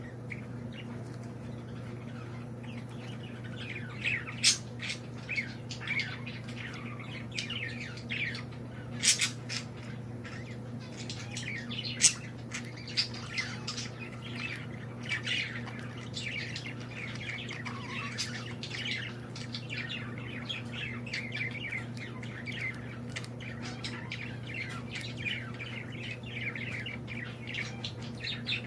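A group of birds chirping and squawking in quick, overlapping calls, with a few sharper, louder calls now and then, over a steady low hum.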